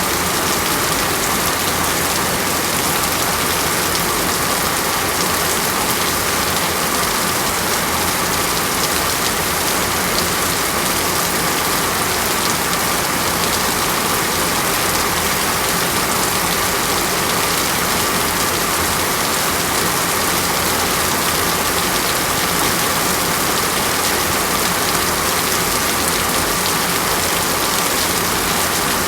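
Steady rain falling on a surface, an even hiss of many drops without let-up.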